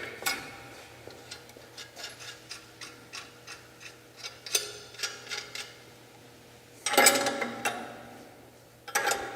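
Ratchet wrench clicking at an even pace, about two to three clicks a second, as it backs off the tensioner nuts on a cutoff saw's motor mount. About seven seconds in comes a louder metallic clatter of tool or hardware.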